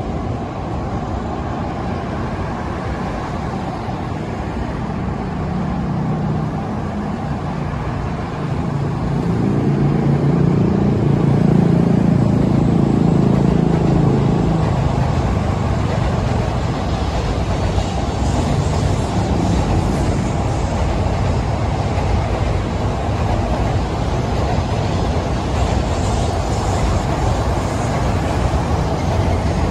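N700-series Shinkansen running along an elevated viaduct overhead: a steady rumble mixed with city road traffic below. A louder low hum swells from about five seconds in and dies away by about fifteen seconds.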